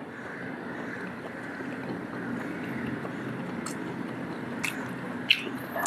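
Steady low background rumble, with a few short sharp clicks in the second half.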